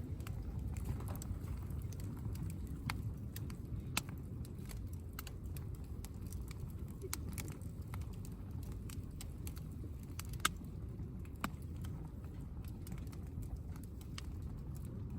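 Wood campfire crackling: scattered sharp pops and snaps over a steady low rumble, with the loudest pops about four seconds and ten and a half seconds in.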